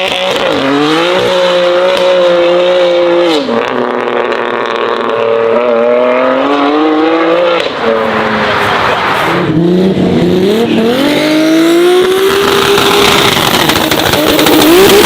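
High-performance car engine accelerating hard through the gears, loud. The pitch climbs, then drops sharply at upshifts about 3.5 and 8 seconds in, and climbs again in the higher gears.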